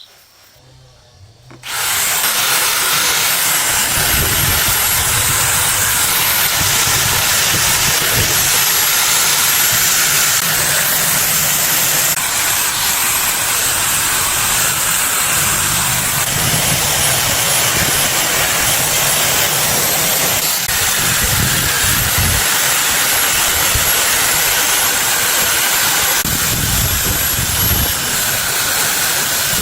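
A high-pressure jet switching on abruptly about two seconds in and then running with a loud, steady hiss over a low motor rumble.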